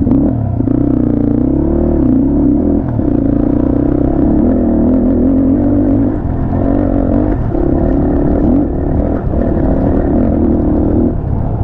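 Motorcycle engine running while riding, a steady drone whose pitch wavers slightly up and down with the throttle.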